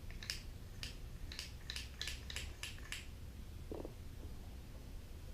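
A quick run of about ten light clicks and taps over the first three seconds, then one duller knock nearly four seconds in: small hard parts being handled.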